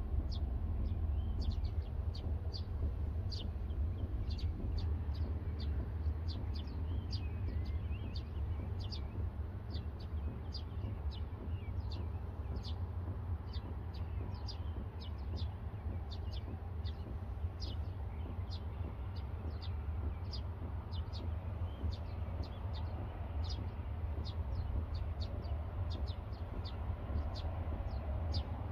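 Small bird chirping in a long run of short, high notes, about two or three a second, over a steady low rumble.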